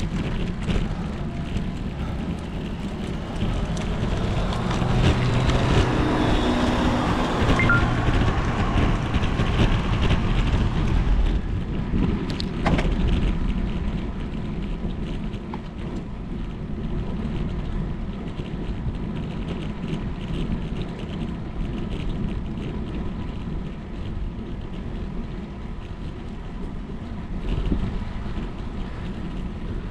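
Wind buffeting the microphone of a camera on a moving bicycle, over the hiss of tyres on a wet road in the rain.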